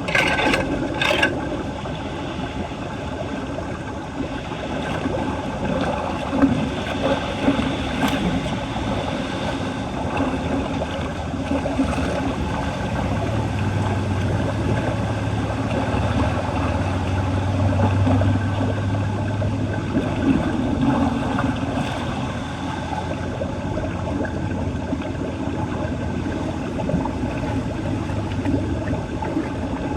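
Floodwater rushing and gurgling steadily down a cleared street storm drain. A low steady hum joins in for several seconds midway, and a few sharp knocks sound right at the start.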